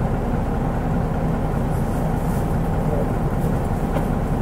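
Mitsubishi Fuso Aero Star bus's 6M70 turbocharged six-cylinder diesel engine running steadily, heard from inside the bus.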